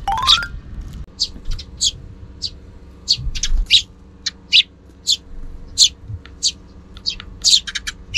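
Eurasian tree sparrows chirping, a quick irregular series of short, sharp chirps. A brief rising tone sounds right at the start.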